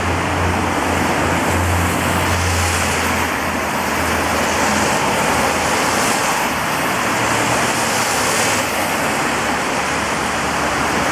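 Steady rain on a wet street, with passing cars whose tyres swish through the water every couple of seconds over a low engine hum.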